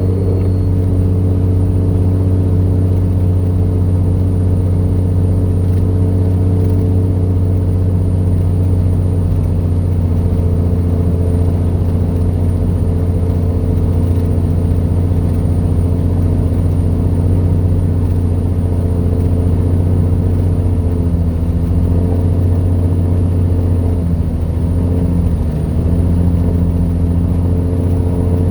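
Vehicle engine and road noise droning steadily while driving, with a slight dip in pitch about three-quarters of the way through. A faint, steady high whine sits above it.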